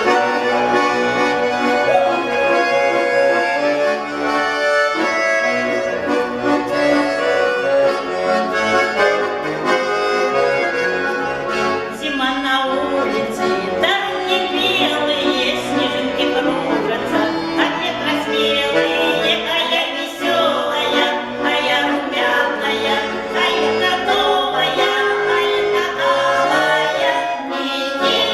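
Accordion playing the instrumental introduction to a song: a continuous melody over chords, filling out somewhat about halfway through.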